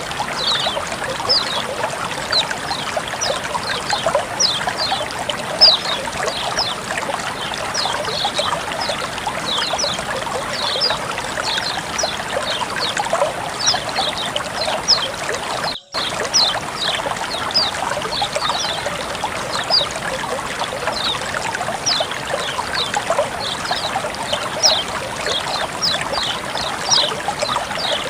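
Flowing water trickling steadily, with a constant patter of small high plinks and bubbling drops over the rush. The sound cuts out for a split second about halfway through.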